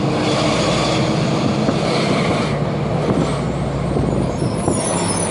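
Four-cylinder diesel engine of an Agrale MT 17.0 LE city bus running steadily. A hiss of air sits over it for the first two and a half seconds, and a thin high-pitched squeal comes in near the end.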